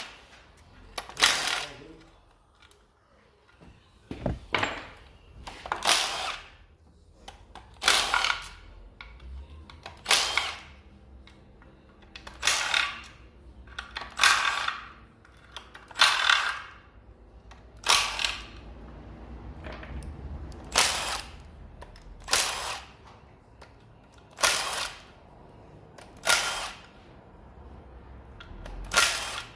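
Handheld power tool run in short bursts about every two seconds, spinning out bolts. There is a single knock about four seconds in.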